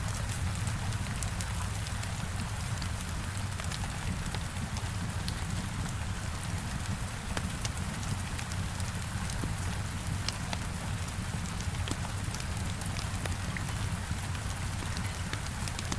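Heavy rain hitting a window, a steady hiss with a low rumble, over the crackling of a wood fire in a fireplace, with scattered sharp snaps.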